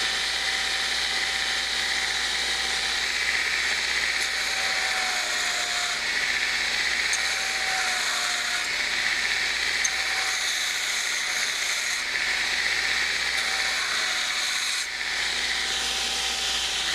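Burr King belt grinder rough-grinding a steel knife blade: a steady hiss of the abrasive belt on the steel over a low motor hum, with a faint whine that dips slightly in pitch now and then.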